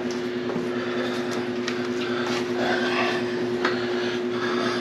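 A steady mechanical hum, with a few faint light clicks of tools and parts being handled.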